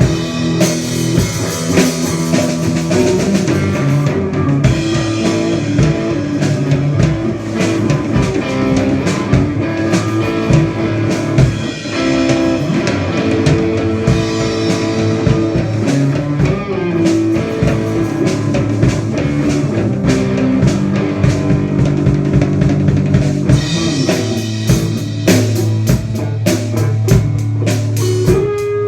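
A live band playing instrumental rock at a sound check: electric guitar, bass guitar and drum kit, with a steady drumbeat under sustained guitar notes.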